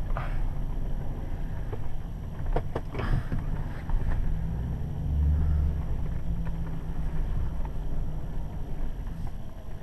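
Strong wind buffeting the microphone as a steady low rumble, with a few light knocks about two and a half to three seconds in.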